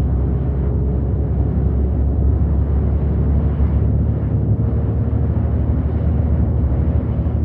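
City bus driving along, heard from on board: a steady low rumble of engine and road noise, with a faint steady whine above it.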